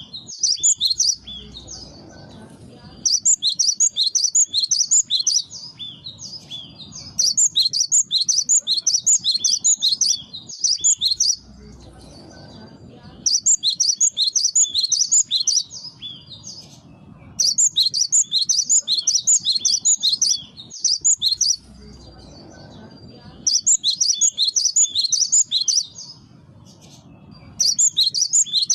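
Cinereous tit (gelatik batu) singing: phrases of quick, high, repeated notes, each two to three seconds long, coming back every few seconds.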